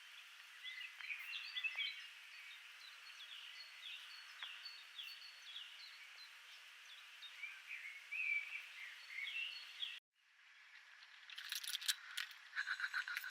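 Several small songbirds chirping and singing over a steady hiss, with many short, quick notes, some sliding downward. About ten seconds in, the sound cuts off abruptly, and a rapid run of sharp clicks and clinks follows.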